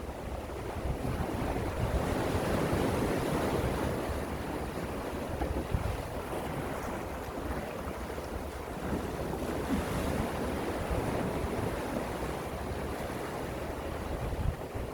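Gentle sea waves washing ashore, the surf swelling about two seconds in and again around ten seconds, with wind rumbling on the microphone.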